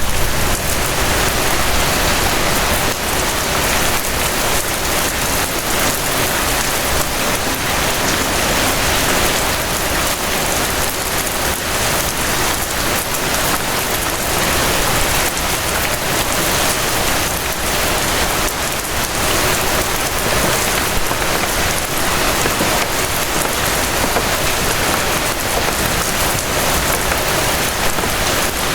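Steady rain falling, a dense, even hiss of drops pattering on surfaces with no pauses or change in strength.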